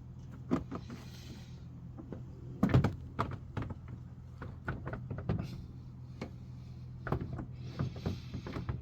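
Hard plastic Ford Focus MK3 light unit being pushed and wiggled into its mounting slot in the car's body: scattered knocks and clicks, with scraping rubs about a second in and near the end.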